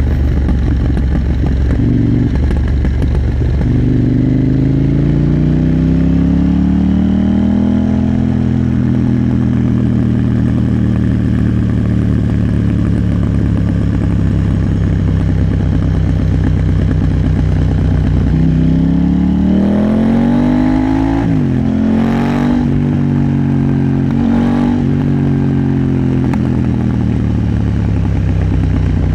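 KTM 890 Duke R's parallel-twin engine running under way. The engine note climbs about four seconds in and then holds steady. Around twenty seconds in it drops and climbs again, with two brief sharp noises soon after.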